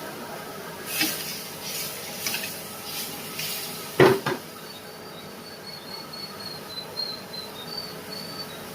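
Scattered clinks and knocks of cooking utensils, the loudest about four seconds in. A faint, high, broken chirping runs through the second half.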